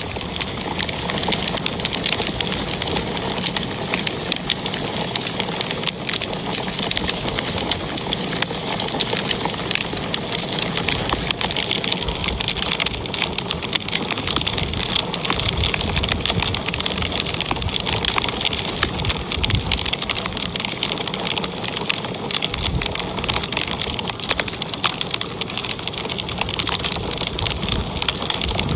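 Wood fire crackling in a fireplace: a steady dense hiss of crackle with many small pops and snaps throughout.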